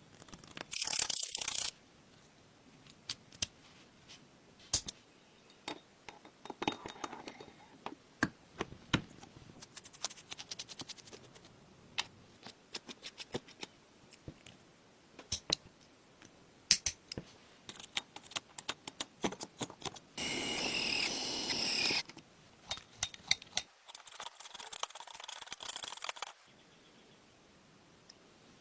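Small metal parts of a miniature four-stroke engine model clicking and tapping against each other as they are handled and fitted, in scattered single knocks. There are short noisy bursts about a second in and again near the middle, one lasting about two seconds and steady.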